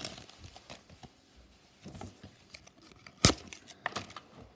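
Quiet rustling and crinkling as Pokémon card booster packs and cards are handled, with one sharp click about three seconds in.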